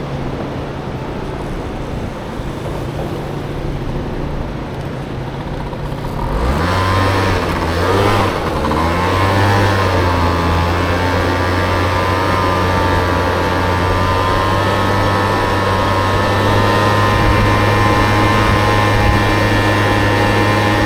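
Honda Motocompo mini scooter running on its swapped-in Honda Dio engine. About six seconds in, the engine gets louder and its note climbs as the scooter pulls away. It then settles into a steady, higher running note over the road noise.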